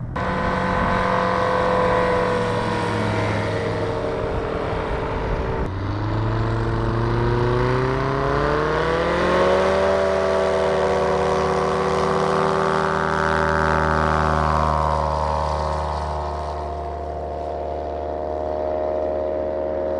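Light aircraft's propeller engine running, breaking off suddenly about six seconds in, then rising steadily in pitch for a few seconds as power comes up before holding steady.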